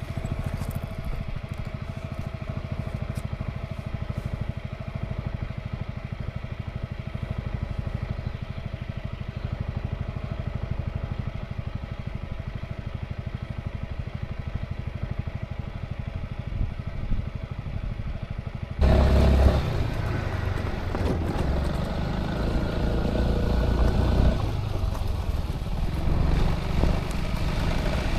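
Honda ADV350 scooter's single-cylinder engine running steadily on the move. About two-thirds of the way through, the sound suddenly turns louder and rougher, with heavy wind buffeting and road noise.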